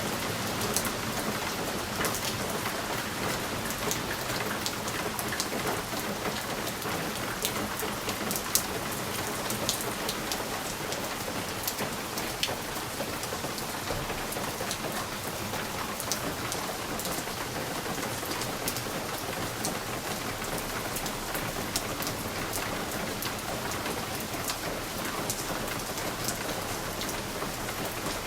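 Steady rain falling, with many sharp drop ticks striking a window over a constant hiss.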